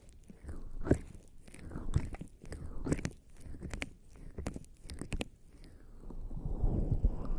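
Bare skin slathered in lubricating jelly rubbing and sliding against a binaural microphone's ears, in slow wet, sticky strokes about once a second with small crackles and clicks.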